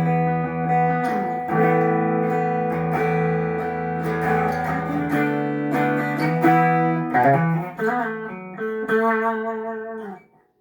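Giannini GGx1hh electric guitar being played in a sound test after servicing. It starts with held chords over low notes, switches to shorter picked notes and arpeggios about halfway through, and briefly goes silent just before the end.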